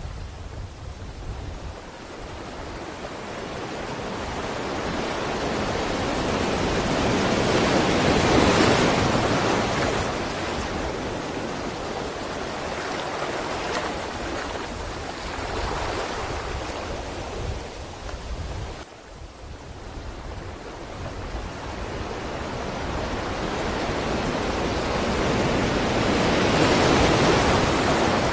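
Ocean waves washing onto the shore in two slow surges, each building over several seconds to a peak and then fading, with a sudden brief drop in level a little past halfway.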